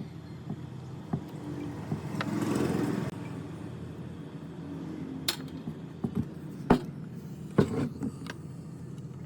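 Workshop handling sounds: a steady low hum, a short scraping rush about two seconds in, then several sharp metal knocks and clinks over the last few seconds.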